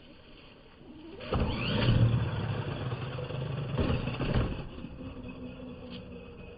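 Arrma Mojave 4S RC truck's electric motor and drivetrain revving up in a deep, slowed-down rumble that surges for about three seconds, then falls away.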